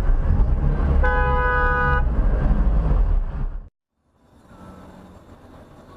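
Loud vehicle and road noise with a car horn sounding one steady note for about a second, about a second in. The noise cuts off abruptly a little over halfway through, and fainter traffic noise follows.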